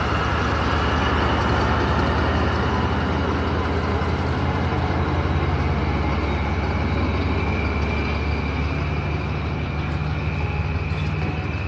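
A train running past: a steady low engine drone with rolling noise from the coaches.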